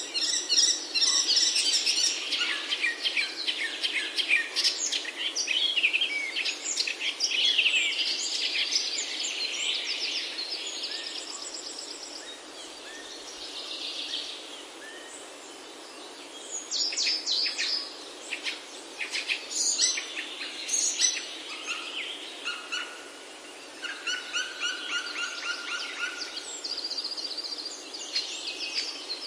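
Several small birds chirping and trilling over a steady background hiss. The calls are busy at first, thin out about halfway through, then pick up again.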